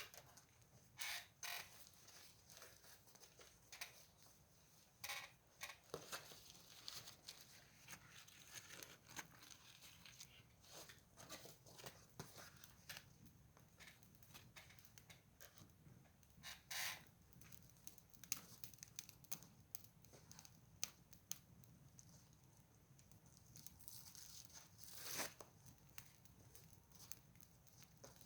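Wood fire crackling faintly, with irregular scattered pops and snaps and a few louder cracks.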